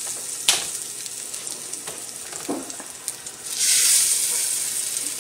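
Chicken breasts sizzling in hot olive oil in a frying pan, a steady high hiss with one sharp click about half a second in. A little before four seconds in the sizzle surges loudly as another piece of chicken is laid into the oil, then slowly eases.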